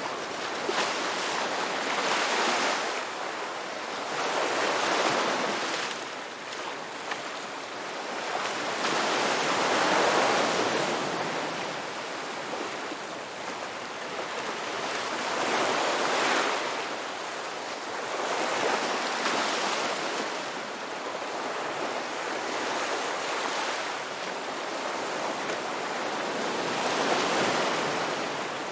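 Ocean waves breaking and washing up the beach, the surf swelling and falling back every few seconds in an irregular rhythm.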